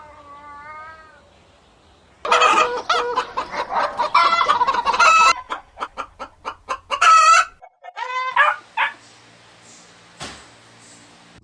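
Chickens clucking and calling: a dense run of calls, then a quick series of short clucks and two brief pitched calls.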